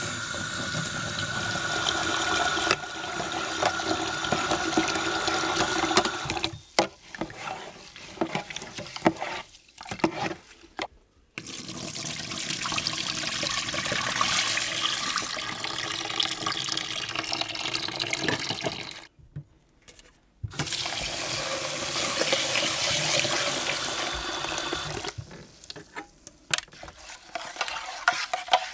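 Water running and splashing, as from a tap into a sink or basin. It flows steadily at first, turns choppy with clatters for a few seconds, and then cuts off and restarts twice.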